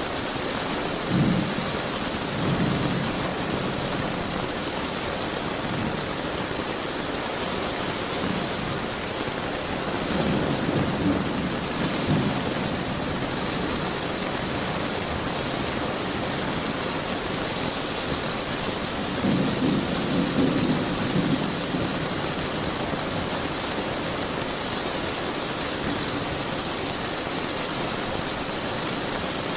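Steady heavy rain with rolling thunder: low rumbles swell up three times, about a second in, around ten seconds and around twenty seconds.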